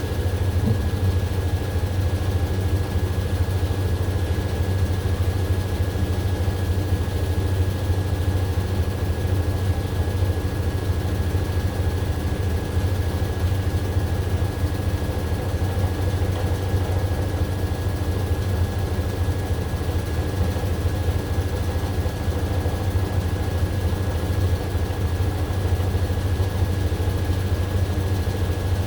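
AQUA AQW-DX12M front-loading drum washing machine running steadily: a continuous low hum from the motor and spinning drum with a thin high whine over it, with no pauses, as in the spin stage late in the cycle.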